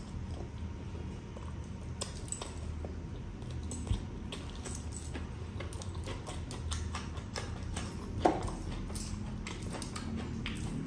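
Close-miked chewing and wet lip smacking, many short mouth clicks over a low steady hum; a sharper click about four seconds in and the loudest one shortly after eight seconds.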